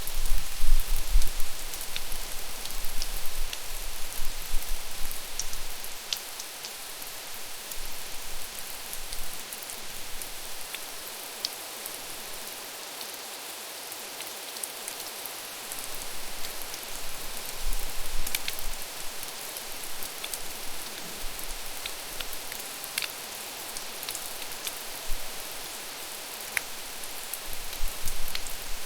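Steady rain falling: an even hiss with scattered ticks of single drops. A low rumble swells up at the start, again about two-thirds of the way through, and near the end.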